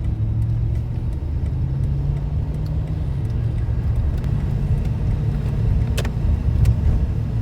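Car engine and road noise heard inside the cabin as the car pulls away from a stop, a steady low rumble. A couple of sharp clicks come about six seconds in.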